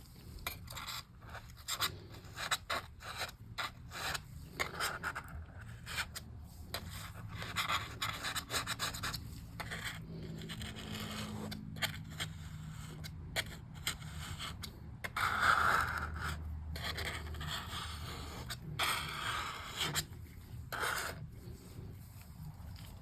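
Razor blade scraping sticker glue softened with WD-40 off a MacBook's surface, in many short, irregular strokes.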